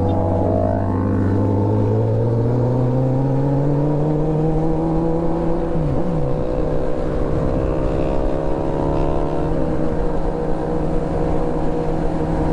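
Motorcycle engine accelerating, its pitch climbing steadily for about six seconds, dropping briefly at a gear change, then holding steady at cruising speed.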